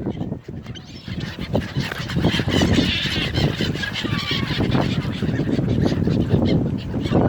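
A flock of seagulls calling and squawking over one another, a dense overlapping din of harsh cries while they are being fed.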